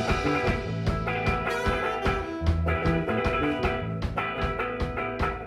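A live band playing instrumental music: electric guitar and bass over a steady drum-kit beat.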